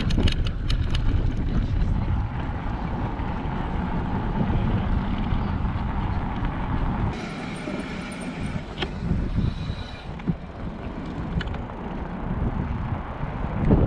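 Steady wind rumble on the microphone with road traffic noise during a bike ride. About seven seconds in, a higher hiss carrying a few steady whining tones joins for some three seconds.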